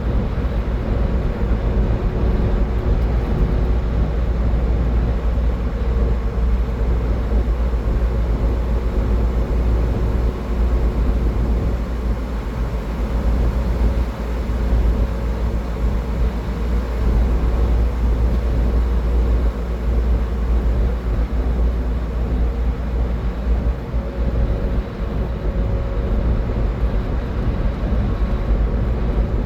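Steady road and tyre noise of a car driving at highway speed, mostly a deep low rumble with a faint steady hum above it.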